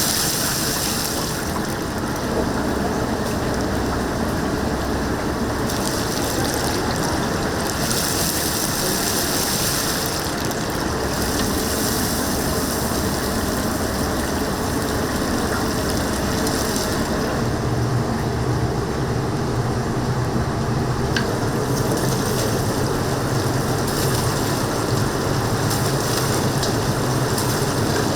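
Whole chickens deep-frying in oil in a cauldron, the oil sizzling steadily with a rain-like hiss that swells and eases in waves. A low steady hum joins past the middle.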